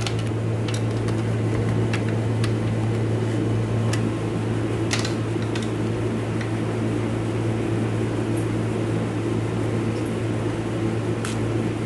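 Steady hum of a fan running, with a few sharp light clicks scattered through it, like small metal transmission parts being handled.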